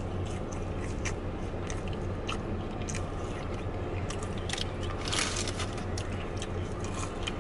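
Close-up chewing of seasoned fries: soft crunching and wet mouth clicks, with a brief louder burst about five seconds in, over a steady low hum.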